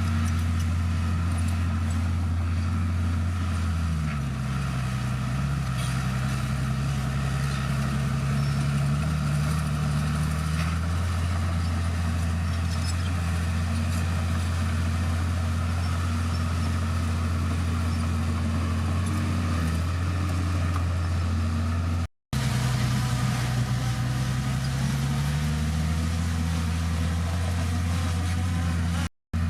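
Heavy diesel engine of a bulldozer running steadily under load, its pitch sagging and recovering twice. The sound drops out abruptly twice.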